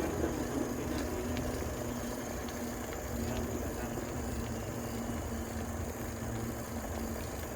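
Steady outdoor road noise: a low rumble with a faint steady hum and hiss, typical of traffic heard while riding a bicycle.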